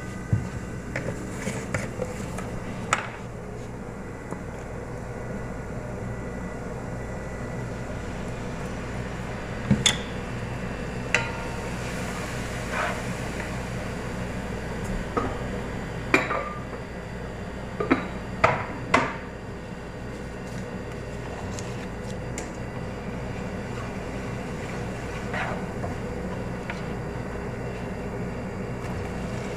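Kitchen utensils knocking and clinking against a cooking pan and dishes while food is prepared: about a dozen sharp, irregular knocks, some with a brief metallic ring, over a steady low hum.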